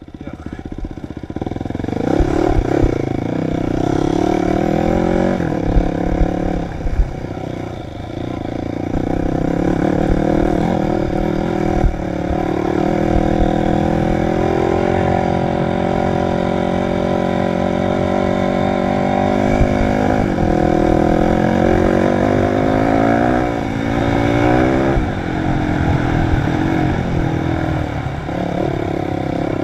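Dirt bike engine revving up and down as it is ridden, its pitch climbing and dropping repeatedly with gear changes and throttle. Low knocks and clatter run underneath.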